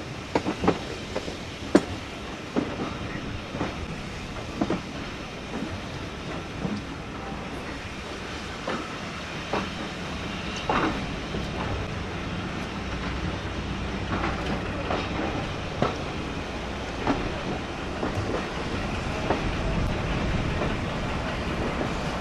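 Passenger train running along the track: a steady rumble with irregular clicks and knocks of the wheels over rail joints, the rumble growing louder near the end.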